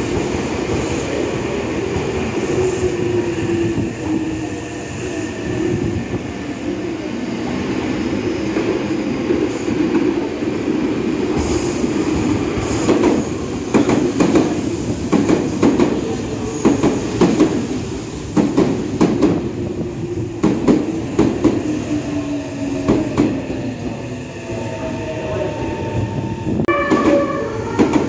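Electric trains running past at close range: a steady rumble with gliding motor and wheel tones, and a dense run of wheel clicks over the rail joints in the middle.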